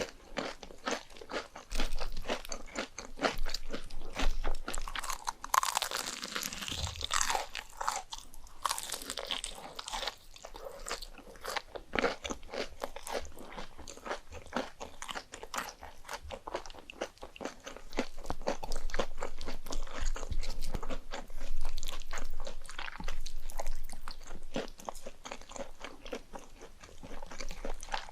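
Close-miked eating sounds: a person biting and chewing, with many crisp crunches coming quickly and irregularly.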